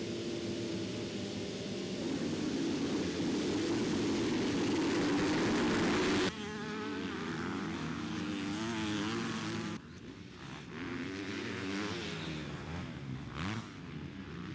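Motocross bike engines running hard and revving on a race track, the pitch rising and falling with the throttle. The sound changes abruptly about six and ten seconds in.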